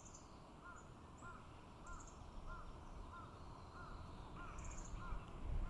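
A bird calling a short note over and over, about one and a half times a second, with other birds chirping higher and fainter, over a faint steady rush of the mountain stream.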